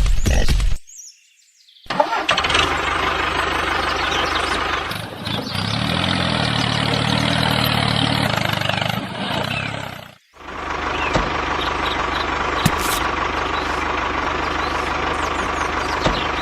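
DIY mini tractor's motor running, cutting out briefly twice and picking up again, with a steady whine in the later part.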